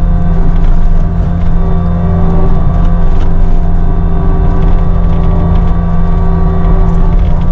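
Cat 259D3 compact track loader's diesel engine running steadily, a loud, even drone with a few faint clicks over it.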